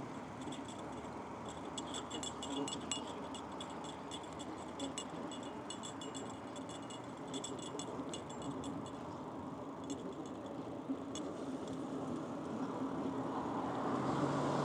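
A bicycle rolling along, with light metallic jingling and ticking from the bike, its ringing, chime-like clinks coming in quick clusters. The jingling stops about 11 seconds in, and a broader road noise swells near the end.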